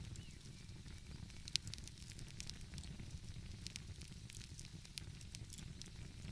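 Wood fire crackling, with scattered sharp pops, the loudest about one and a half seconds in, over a steady low rumble.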